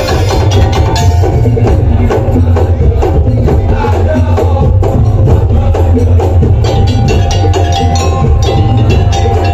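Madurese daul (tong-tong) ensemble playing loud, fast music: dense wood-block and drum strikes over a heavy bass, with a held melodic line on top.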